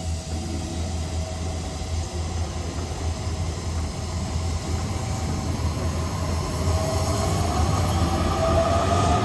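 Passenger train moving along a station platform: a steady low rumble that grows louder, with high steady tones of wheel squeal or motor whine rising in level in the last few seconds.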